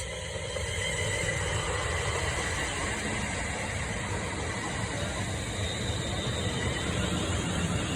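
A Class 350 Desiro electric multiple unit running in on the line towards the platform: a steady rumble of wheels on rail, with a faint high whine above it.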